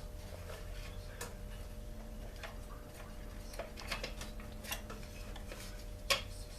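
Scattered light clicks and taps of hand tools and parts being worked on a chainsaw's plastic housing during teardown, over a steady low hum. The sharpest click comes near the end.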